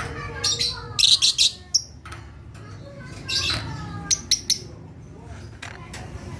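Lovebirds chirping: short, sharp, high-pitched calls in quick clusters, one about a second in and another around four seconds.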